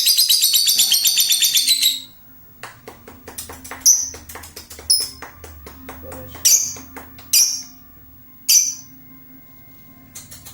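A lovebird calling: a loud, rapid, high chattering trill for about two seconds, then five short, sharp shrill calls about a second apart, with faint clicks in between.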